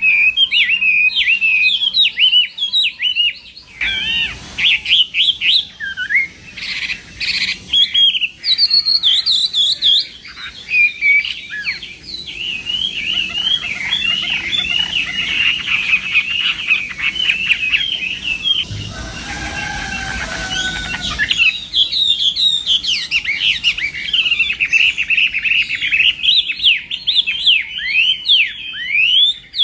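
Chinese hwamei singing a long, fast, varied song of whistled notes and trills, with hardly a pause.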